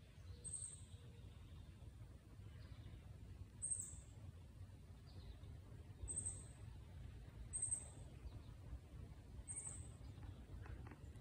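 Faint bird chirps: short, high-pitched calls that come every one to two seconds, over a low steady rumble.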